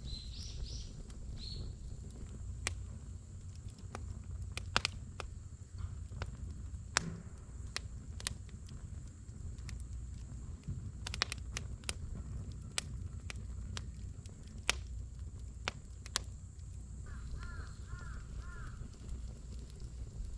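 Wood campfire burning in a fire pit, crackling with sharp irregular pops over a low steady rumble.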